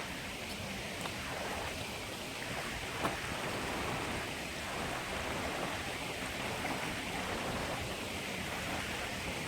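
Steady rushing of a mountain stream, with one sharp click about three seconds in.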